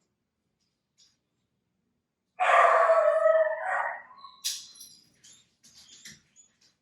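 An animal call, loud and about a second and a half long with a slightly falling pitch, starting a couple of seconds in, followed by faint high chirps and clicks.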